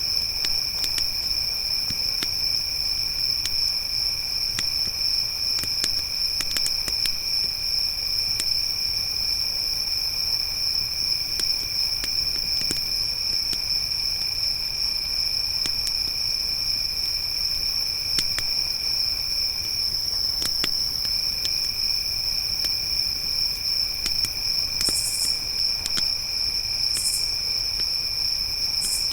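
Crickets chirping in a steady, continuous high trill, with a second, lower-pitched cricket that stops for about a second around two-thirds of the way through. Scattered soft pops from a crackling campfire sit under it, and three short, higher chirps come near the end.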